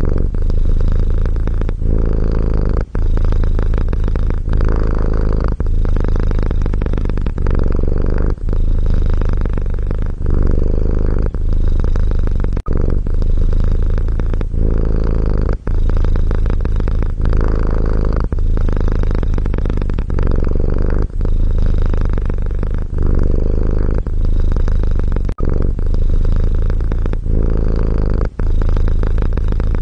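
Domestic cat purring steadily, a deep rumble with short breaks about every one and a half to two seconds.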